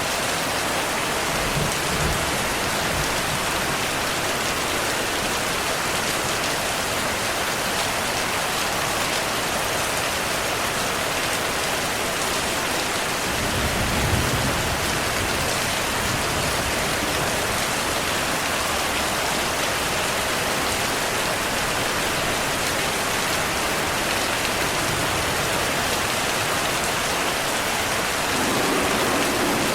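Heavy rain falling steadily, with a low rumble of thunder about halfway through and another starting to build near the end.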